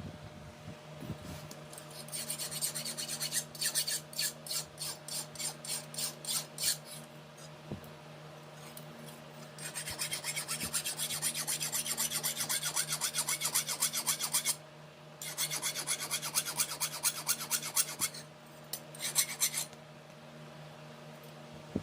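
Hand file rasping back and forth on a leaf-spring steel blade in runs of strokes, at first about two to three a second, then quicker and denser from about ten seconds in. A steady low hum runs underneath.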